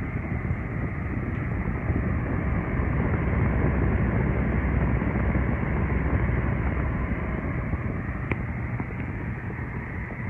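Mallory Fan-12 30 cm table fan running: a steady rush of air with a low rumble, a little louder through the middle.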